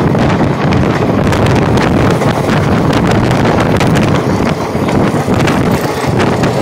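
Indian Railways passenger coach running at speed, heard from a microphone held outside the coach: heavy wind buffeting the microphone over the steady rumble of the train on the track.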